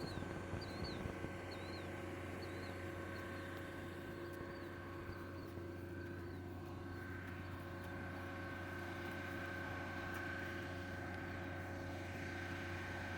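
A steady engine hum with a high whine, the whine growing a little stronger around the middle. A few bird chirps sound in the first second or so.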